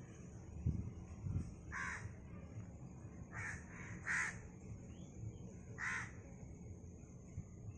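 A bird calling: five short, rasping calls, two of them close together near the middle and the loudest about four seconds in, over a steady high hiss. Two low thumps come in the first second and a half.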